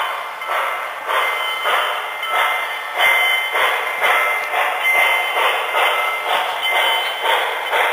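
HO-scale model freight train running along the layout track: a steady rhythmic pulsing, about three beats every two seconds, with a thin steady whine over it.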